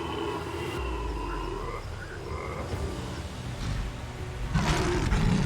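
Croaking animal calls in a jungle soundscape, with a louder, rough, noisy burst about four and a half seconds in.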